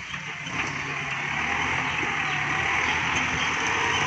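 Kubota MU5702 tractor's diesel engine running steadily under load, growing gradually louder.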